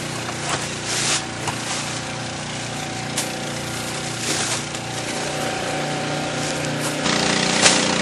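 Outboard motor of a Zodiac inflatable boat running steadily, with short bursts of noise over it; the engine's sound changes abruptly about seven seconds in.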